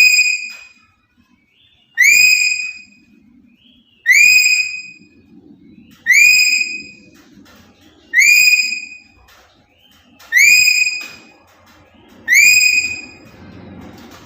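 Black-capped lory's whistled call: one short note that rises and then holds steady, repeated identically about every two seconds, seven times. It is played as a training recording for young lories learning to call.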